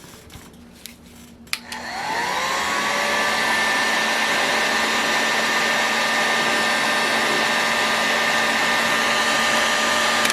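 A heat gun is switched on a couple of seconds in. Its fan whine rises and settles to a steady pitch under a loud rush of air, and it is switched off at the end. It is heating the model engine to loosen a part that is stuck fast. A few light clicks of tool handling come before it starts.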